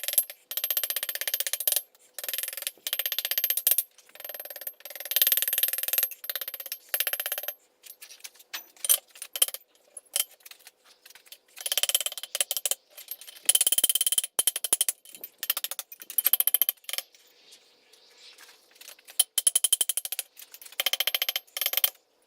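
Hammer striking hot steel bar on an anvil in quick runs of blows with a bright metallic ring, broken by short pauses, as the end of a rebar handle is scrolled into a loop.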